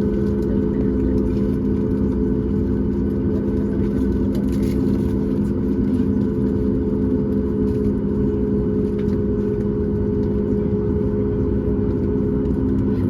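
Boeing 737 MAX 8's CFM LEAP-1B jet engines heard inside the cabin: a steady drone with several held tones over a low rumble.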